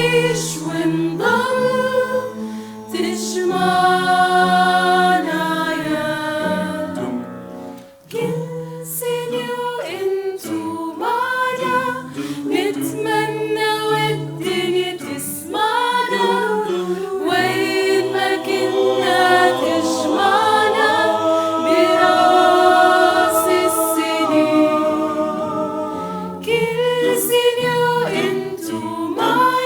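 A choir singing in harmony, with a brief break about eight seconds in.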